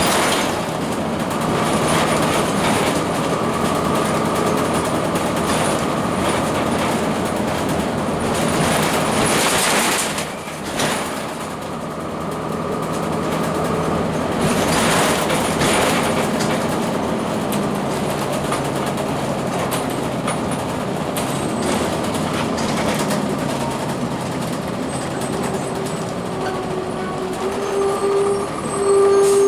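Blue Bird CS transit bus on the move: its Cummins ISC diesel running under steady road noise and rattling. There are two louder rushes of noise, about a third of the way in and about halfway, and a steady whine comes in near the end.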